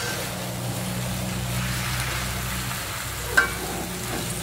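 Kangkung (water spinach) sizzling as it is stir-fried in hot oil and belacan paste and turned with a metal slotted spatula, over a steady low hum. A sharp clack of the spatula against the pan stands out about three and a half seconds in.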